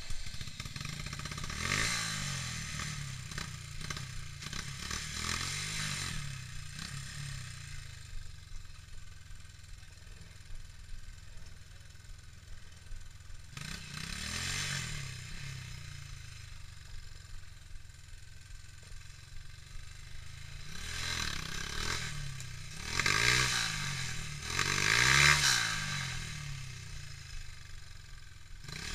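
Dirt bike engine running and revving in bursts as a rider climbs a steep, rooty trail section. The two hardest revs come near the end.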